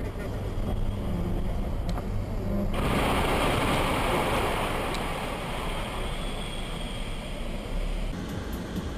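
Road and engine noise of a moving car, recorded by a dash cam: a steady low rumble, with a sudden louder rushing hiss about three seconds in that eases off near the end.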